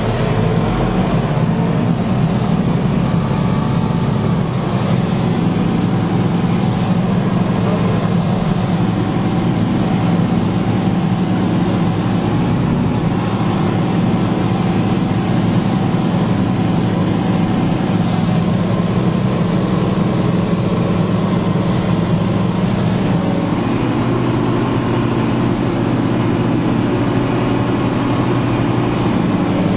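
Heavy diesel farm machinery running steadily, a deep continuous engine drone with a slight shift in its note about three-quarters of the way through.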